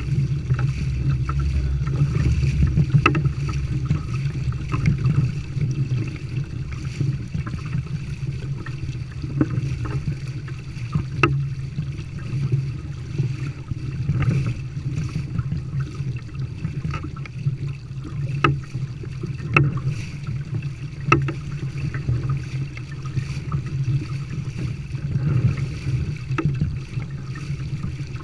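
Water rushing and lapping along the hull of a Long Haul Mark II kayak sailing under way, with wind rumbling on the microphone. Occasional short sharp slaps of small waves against the hull.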